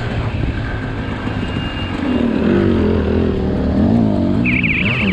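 Sherco SE300 two-stroke single-cylinder enduro engine running under throttle, its pitch rising and falling as the rider works the throttle and getting louder about two seconds in. A short high squeal comes near the end.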